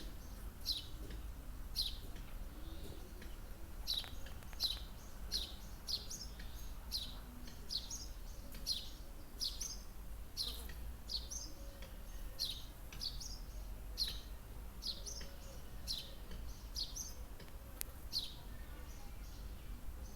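Small birds singing: short, high chirps, each falling in pitch, repeated about twice a second.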